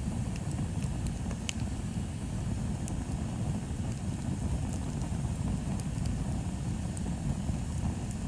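Bonfire burning: scattered sharp crackles and pops of burning wood, about one or two a second, over a steady low rumble.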